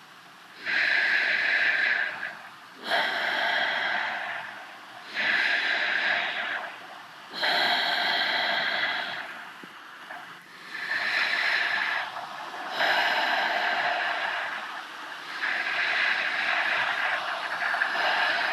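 A person's slow, loud breathing, rising and falling in even swells about every two to two and a half seconds.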